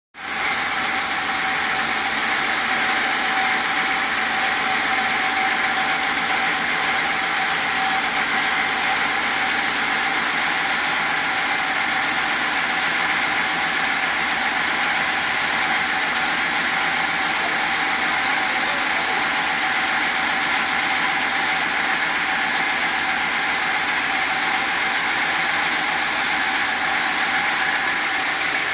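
Rubber and EVA foam splitting (skiving) machine running steadily, a continuous mechanical hiss and hum with no change in pace.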